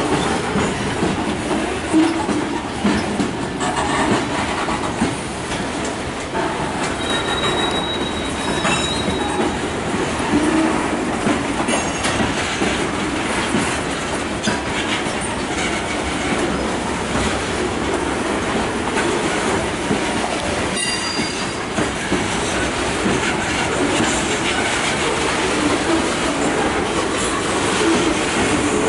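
Freight cars (covered hoppers and tank cars) rolling past, steel wheels rumbling steadily and clicking over the rail joints. A brief high squeal comes about seven seconds in.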